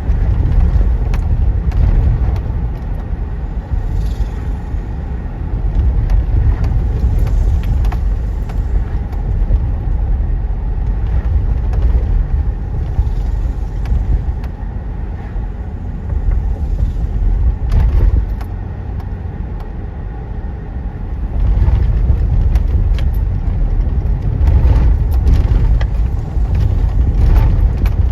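Low rumble from a standing freight train, rising and easing in waves, with scattered metallic clicks and rattles.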